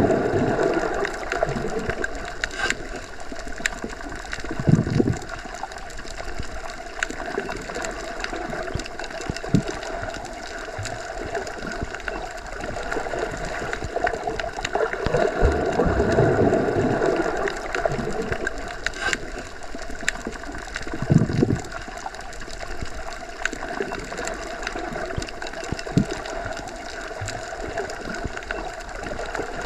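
Underwater ambience through a submerged microphone: a muffled, steady rush of moving water that swells at the start and again about halfway, with low thuds about five seconds in and about three-quarters of the way through, and scattered small clicks.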